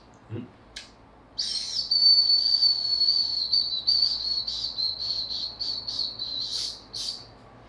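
A high-pitched whistling sound starts about a second and a half in, holds steady, then breaks into quick pulses in its second half before stopping near the end. A couple of faint clicks come just before it.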